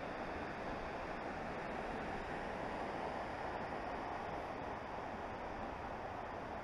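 Steady, even rushing of a waterfall's falling water.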